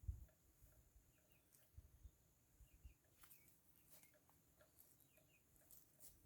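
Near silence, with faint short chirping calls of farm poultry, often in pairs, and a few soft low thumps, the strongest right at the start.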